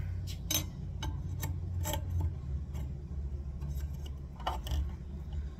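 Light metallic clicks and taps as a steel axle is slid through a minibike's rear wheel hub, its bearings and spacers, over a steady low hum. The clicks come in a cluster during the first couple of seconds and a few more near the end.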